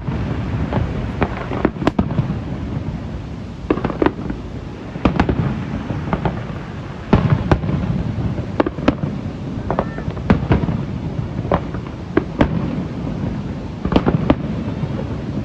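Aerial fireworks display: a dozen or so shells bursting with sharp bangs at irregular intervals over a continuous low rumble of booms echoing.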